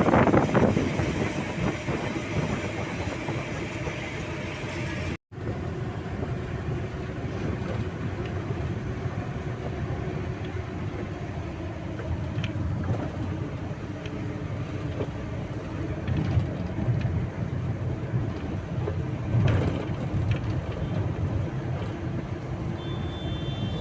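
A train running on the rails with a steady low rumble. The sound cuts out briefly about five seconds in, then carries on.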